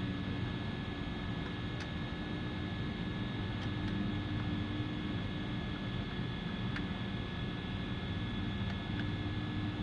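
A steady mechanical hum with a few steady tones in it. A handful of faint light clicks sound over it, about two, four, seven and nine seconds in.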